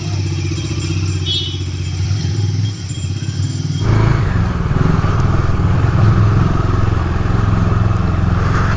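Bajaj Dominar 250's single-cylinder engine running as the motorcycle rides along, with an even rushing of road and wind noise coming in sharply about four seconds in.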